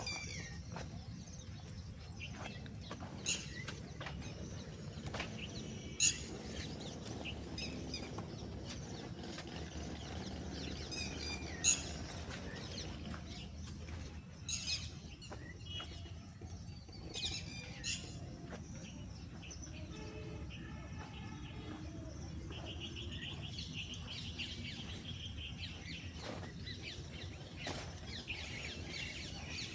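Wild birds chirping and calling outdoors, with short sharp calls scattered through and a buzzy trill about two-thirds of the way in. A steady high-pitched tone and a low rumble run underneath.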